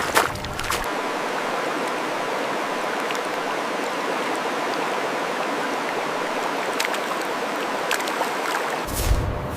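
Steady rush of running water, broken near the end by a deeper, louder sound.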